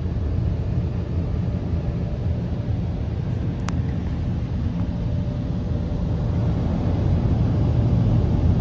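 Proto-Vest car wash air dryers blowing over the car: a steady rushing noise, a little louder near the end.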